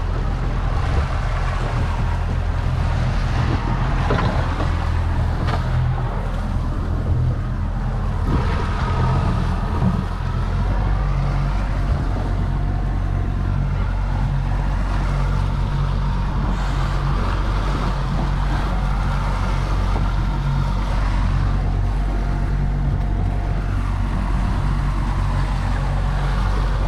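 Boat engine running steadily at trolling speed, with wind and water noise over it; the engine note shifts slightly about ten seconds in.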